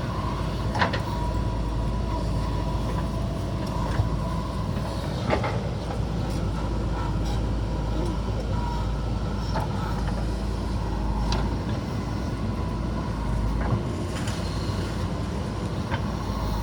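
Backhoe loader's diesel engine running steadily, with a few sharp knocks over it.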